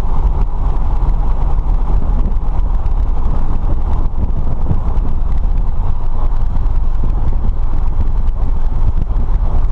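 Light aircraft's piston engine and propeller running steadily, a loud even drone heard from inside the cabin.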